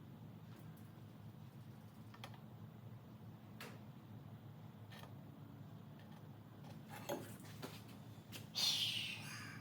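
Scattered light clicks and taps of exhaust pipe parts being handled and fitted, over a faint low hum, with a louder short scrape near the end.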